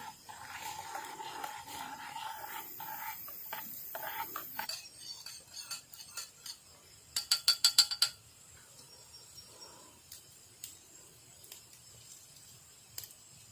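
Metal utensil clinking against cookware, a quick run of about eight sharp ringing chinks a little past halfway, after a steadier stretch of faint stirring or handling sounds with a thin steady tone.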